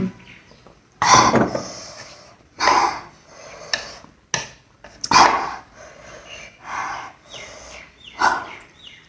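Spicy noodles being slurped and chewed close to the microphone, in loud, irregular slurps every second or so.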